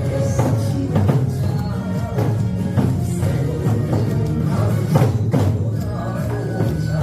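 Nanta-style drumming, Korean drums struck in rhythm along with a recorded song's music track.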